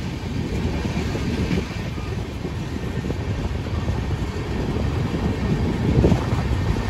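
Passenger train running along the rails past a station platform, a steady low rumble of the coach wheels that swells slightly about six seconds in.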